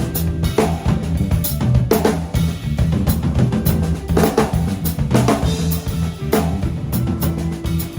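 Small band playing a groove: drum kit with kick and snare hits keeping a steady beat over a bass guitar line and a sustained held chord note.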